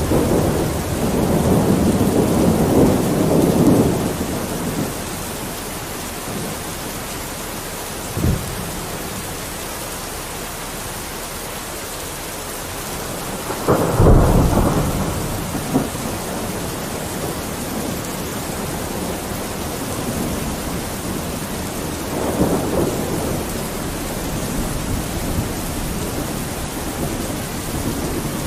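Steady rain hiss with thunder: rolling low rumbles about a second in, a sudden louder clap and rumble about fourteen seconds in, and a softer rumble near the end.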